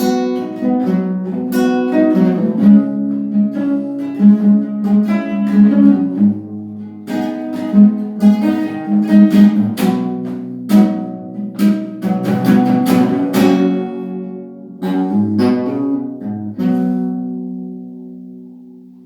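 Acoustic guitar played with a mix of plucked notes and strummed chords, ending on a final chord that rings out and slowly fades.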